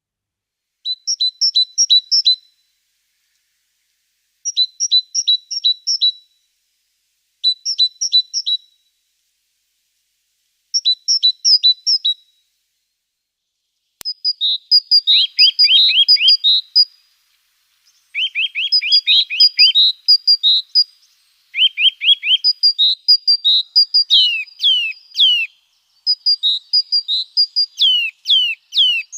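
Small songbirds singing: four short phrases of quickly repeated two-pitched notes with gaps between them, then from about halfway a denser stretch of song with rapid series of falling whistled notes.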